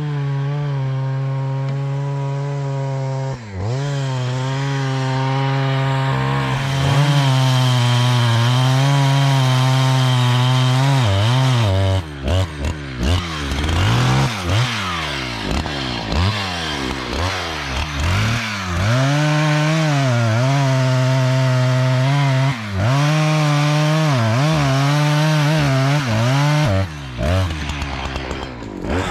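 Two-stroke chainsaw cutting wood at high revs. Its pitch dips and recovers again and again under the load of the cut, with quick throttle swoops up and down in between.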